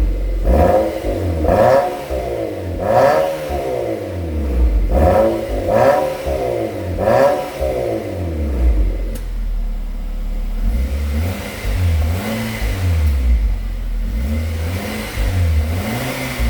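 Renault QM6 with a custom variable exhaust being revved in short repeated throttle blips, about one a second. The first half is louder and brighter; after about eight seconds the blips become lower and softer.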